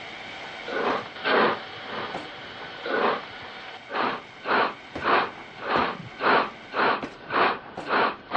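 Steam locomotive chuffing as it pulls away. The puffs come slowly at first and speed up to about two a second.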